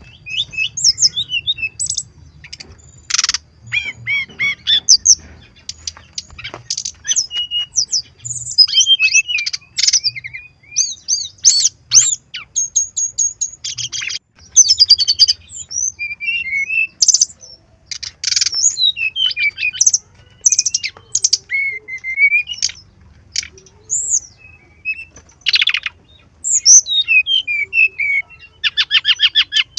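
Brown-chested jungle flycatcher singing a long, varied song packed with imitated phrases of other birds: quick high chirps, short whistles and fast rattling trills following one another without a break.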